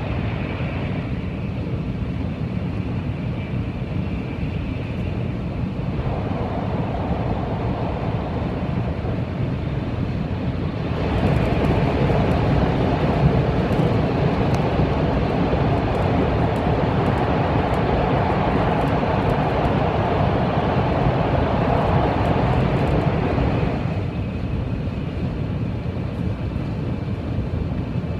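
Sanyo Shinkansen train running at speed, heard from inside the passenger cabin: a steady rumble and rush of air. About eleven seconds in it turns louder and fuller as the train enters a tunnel, and it drops back near the end as the train comes out.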